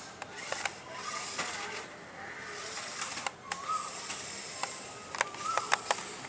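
Small electric motor and gears of a 1/12-scale RC rock crawler truck whirring as it drives, with scattered sharp clicks and knocks.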